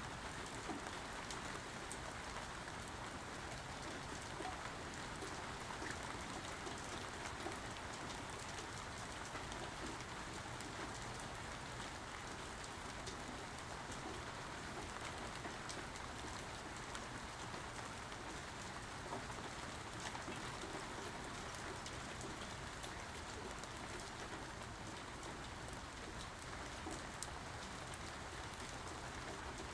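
Steady rainfall, an even hiss with scattered individual drops ticking sharply through it and no thunder.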